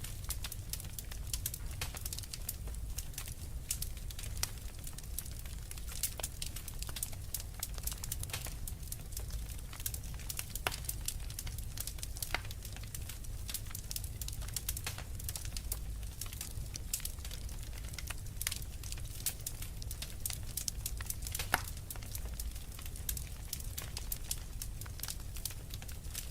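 Wood fire crackling in a fireplace: a steady stream of small sharp pops and snaps over a low steady rumble, with one louder pop about four fifths of the way through.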